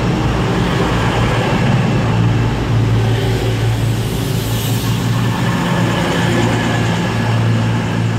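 Class 220 Voyager diesel multiple unit's underfloor diesel engines running with a steady low drone while the train stands at the platform.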